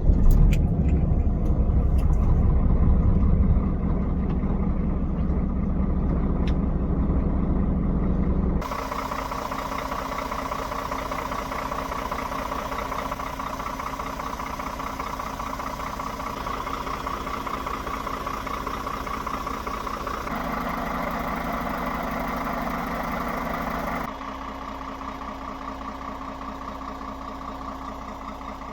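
Scania R410 Euro 6 truck's diesel engine idling just after start-up, loudest and deepest over the first few seconds. The sound changes abruptly about nine seconds in to a thinner, steadier idle with a clear tone, then shifts twice more near the end.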